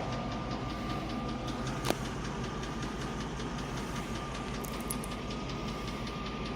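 1998 Range Rover P38 engine idling with a heavy, regular tick, about six a second, keeping time with the valve train. The owner suspects a slipped cylinder liner. A single sharp click sounds about two seconds in.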